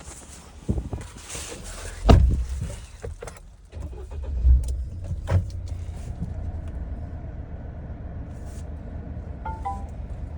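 GWM Poer pickup with its 2.4-litre turbo engine: a sharp thump about two seconds in, such as a door shutting, a few lighter knocks, then the engine running with a steady low hum. Near the end a short two-note electronic chime sounds from the vehicle.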